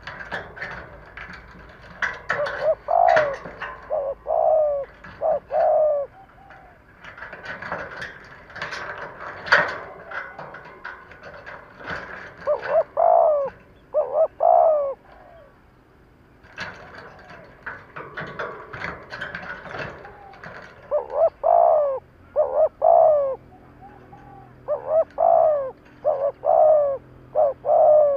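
Spotted dove cooing: three bouts of short, repeated coo phrases, separated by pauses of a few seconds.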